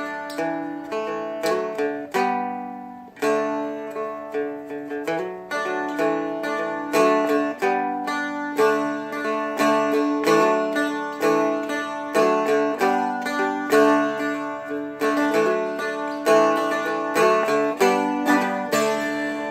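Seagull Merlin M4, a four-string fretted dulcimer, strummed in a steady repeating pattern over a D chord, with a brief change to a low G fretted at the third fret.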